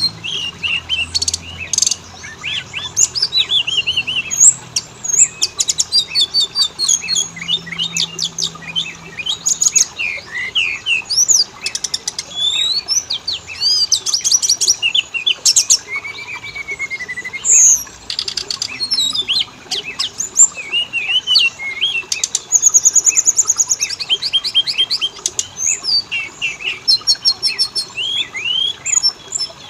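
Oriental magpie-robin (kacer) singing without a break: a busy run of varied whistles, slurred rising and falling notes and fast rattling trills.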